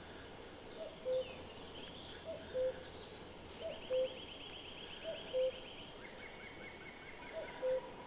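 A bird repeating a low two-note call, the first note short and higher, the second held a little longer, five times at a steady pace. Faint rapid high trills run underneath for a few seconds midway.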